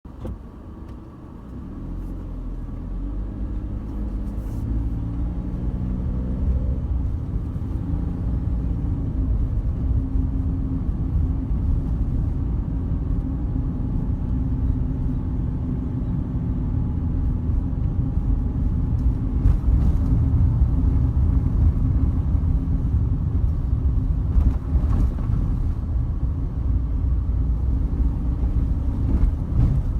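Car driving: engine pitch rises over the first several seconds as it picks up speed, then settles into a steady low rumble of engine and road noise.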